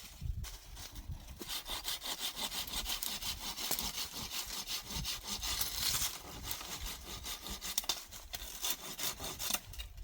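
Wood being sawn by hand, a steady run of back-and-forth strokes.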